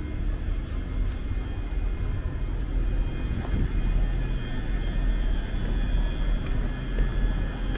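Steady hum and low rumble of a ScotRail passenger train standing at the platform, with a faint high whine over it.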